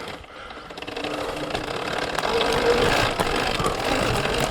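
Surron Ultra Bee electric dirt bike on a trail at low throttle: irregular clicks and knocks from the chain and chassis, with brief, faint whines from the electric motor. The sound grows louder over the first couple of seconds.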